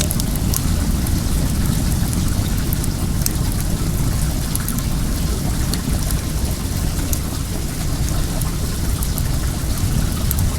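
Steady rushing of running well water with a strong low rumble, over which a wood fire gives occasional sharp crackles and pops.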